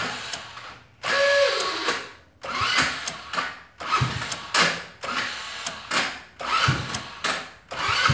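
Go-kart's electric starter cranking the cold engine in repeated short bursts of about a second each, about seven times, without the engine catching. It is a hard cold start with starter fluid sprayed into the intake.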